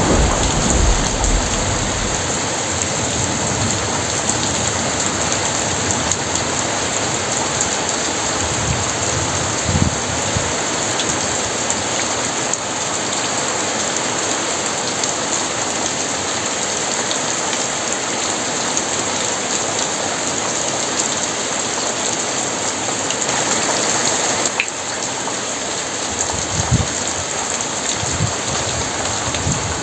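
Heavy rain pouring steadily, with the tail of a thunder rumble dying away in the first couple of seconds and a few brief low thuds later on.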